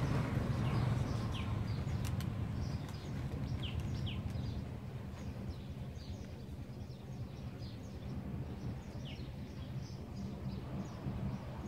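Small birds chirping repeatedly with short high calls, over a steady low background rumble.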